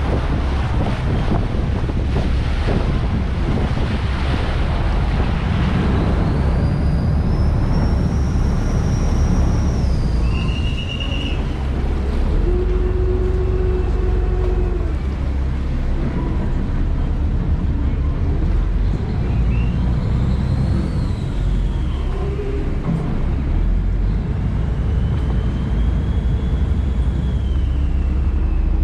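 River boat's engine running with a steady low rumble, with wind and water noise strongest over the first few seconds. Faint high whining tones rise and fall a few times.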